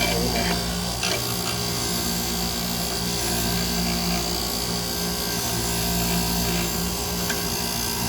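Power wire brush running steadily against a scarred steel PTO part, scrubbing and smoothing the metal without taking material off, with a steady motor hum under the rasp of the bristles.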